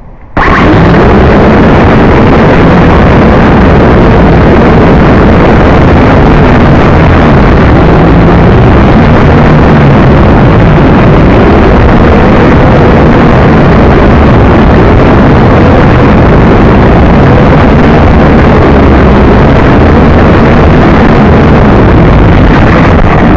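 JJRC H12C quadcopter's motors and propellers starting suddenly about half a second in and running steadily at high throttle. It is heard through the drone's own onboard camera microphone, so the sound is very loud and distorted, pinned at full level.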